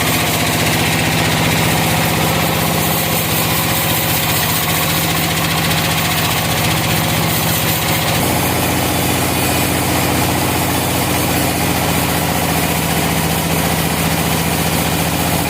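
Sawmill engine running steadily, its note dropping slightly about eight seconds in.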